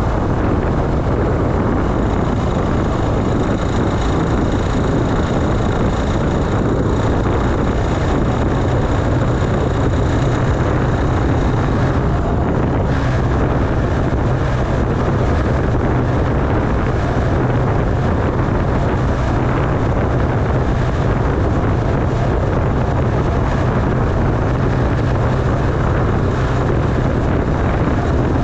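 Honda Beat carburetted scooter's single-cylinder engine running steadily under way, mixed with wind noise on the dash-mounted action camera's microphone. A faint high whine runs through the first half.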